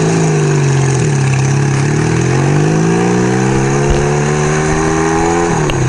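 1975 Kawasaki KZ400 parallel-twin engine pulling away under throttle, with wind rushing past. Its pitch dips about a second in, climbs steadily for several seconds, then drops sharply near the end as it shifts up a gear.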